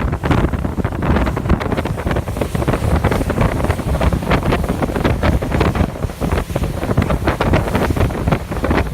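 Strong wind buffeting the microphone in gusts over the low rumble of a boat running on open ocean with waves.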